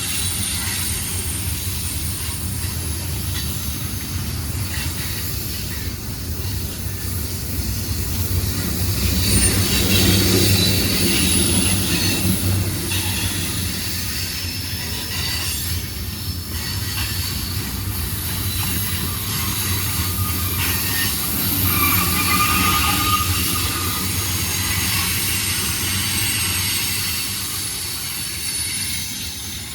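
Freight cars of a mixed freight train rolling past, with a steady rumble of steel wheels on rail and thin high-pitched wheel squeal. It swells louder about a third of the way in and again about three quarters through.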